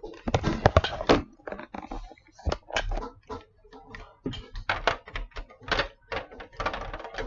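Plastic toys being handled and knocked together: an irregular run of sharp clicks, taps and thuds, several a second in places.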